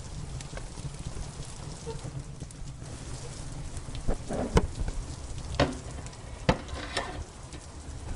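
Steady rain with a low rumble under it, and a wood fire crackling in a fireplace, with a handful of sharp pops in the second half.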